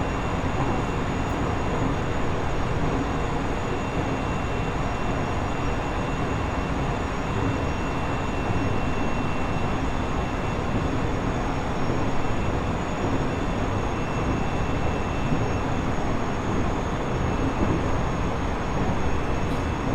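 Interior running noise of a JR East E127 series electric multiple unit (Toyo Denki GTO-VVVF inverter), heard inside its motor car KuMoHa E127-11: wheels on rail and car-body rumble at a steady speed, with faint, steady high whines.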